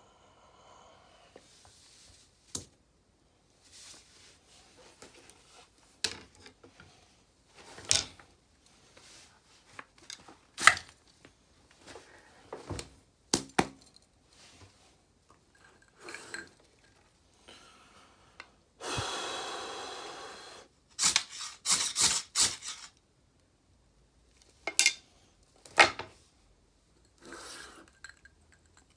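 Cookware and utensils being handled: scattered clinks and knocks of metal dishes, pots and cutlery, with a quick run of knocks about two thirds of the way through. About 19 s in comes a noisy rush lasting about two seconds that fades slowly.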